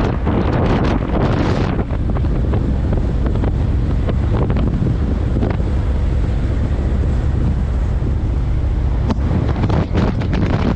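Wind buffeting the microphone of a moving motorcycle, a loud steady rumble with road and engine noise beneath it. The higher hiss eases about two seconds in.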